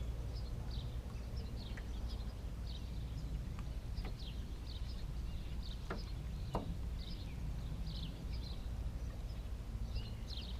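Small birds chirping over and over in short high calls, above a steady low rumble, with a few faint clicks.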